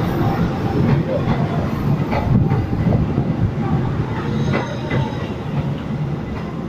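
Stainless-steel passenger carriages rolling past on the rails: a steady rumble of wheels on track, with a few sharp clicks as wheels cross rail joints.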